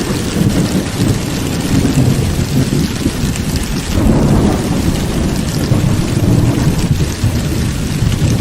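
Heavy rain pouring steadily through a thunderstorm, with deep rolling thunder that swells and eases every few seconds beneath the hiss of the rain.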